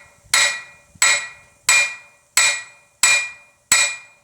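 Blacksmith's hand hammer striking hot steel flat bar on an anvil: six ringing blows at a steady pace of about one and a half a second. The blows are drawing out the thumb-latch end of a Suffolk latch handle to make it wider and thinner.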